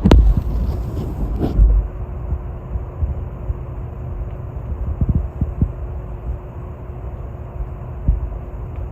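High winds gusting against the microphone as a low rumble, loudest in the first couple of seconds and again in short gusts later, with a faint steady hum underneath.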